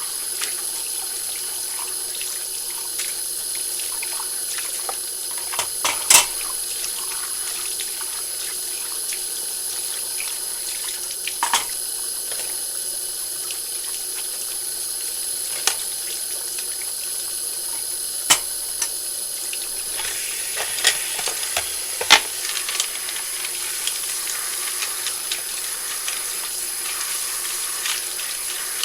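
Kitchen tap running steadily into a sink during dishwashing, with a handful of sharp clinks of dishes knocking together. The water's sound brightens about two-thirds of the way through.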